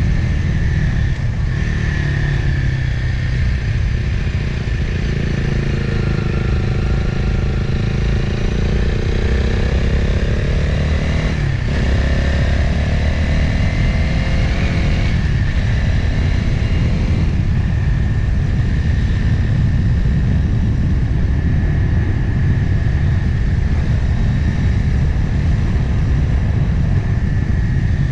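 Motorcycle engine running on a downhill ride, heard through an onboard camera with heavy wind rumble. The engine pitch rises and falls with the throttle, and there is one quick falling sweep about a third of the way in.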